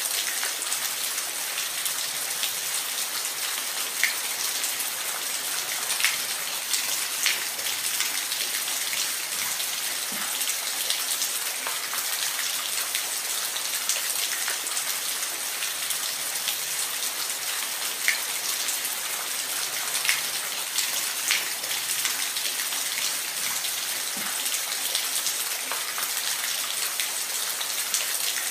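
Steady hiss of falling water, with a sharper splash or drop standing out every few seconds.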